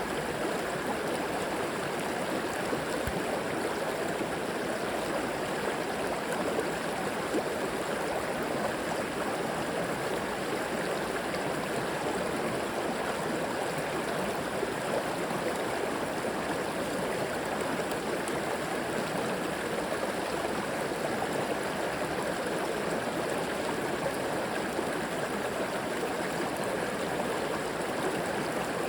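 Flowing river water, a steady rush and babble.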